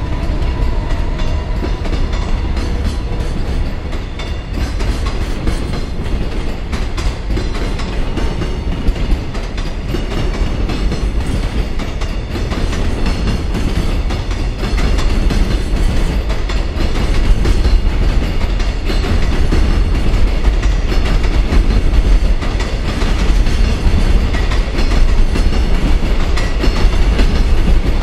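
Koki 104 container flatcars of a freight train rolling past, wheels clattering and rumbling over the rails as the train gathers speed after departing. It gets louder about halfway through.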